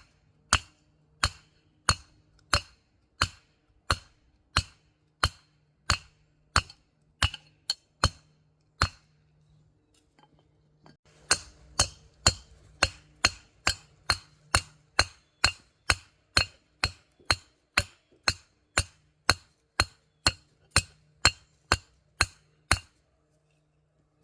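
Hammer blows on heated metal, each strike ringing sharply. The blows come steadily at about one and a half a second, stop for a couple of seconds about nine seconds in, then resume a little faster and stop shortly before the end.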